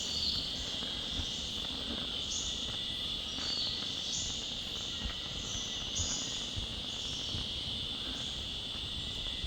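Forest insect chorus: a continuous high-pitched drone, with short, higher chirps repeating about once a second over it.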